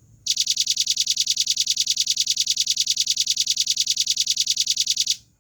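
Velvet-fronted nuthatch (red-billed nuthatch) singing a fast, even trill of high, clear notes, about ten a second, held for nearly five seconds and stopping abruptly near the end.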